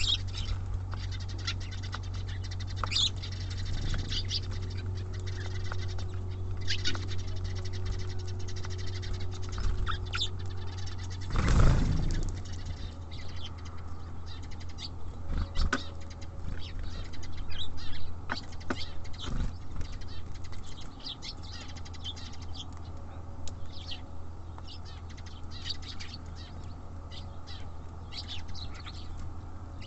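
Small birds at a feeder: wings fluttering, many light taps and scratches of feet and beaks on the feeder, and short high chirps, with one louder flurry of wings about twelve seconds in. A steady low hum lies underneath.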